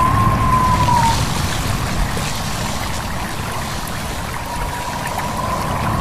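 A stream babbling steadily, with wind whistling over it in a thin, high tone that dies away about a second in and returns near the end.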